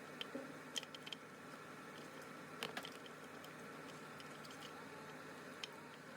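A few faint clicks and taps of small objects being handled, in clusters about a second in and near the middle, over a steady low hiss.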